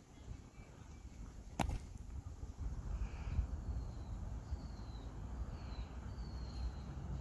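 Campfire burning with a low rumble, one sharp crack of popping wood about a second and a half in, and a few faint high chirps later on.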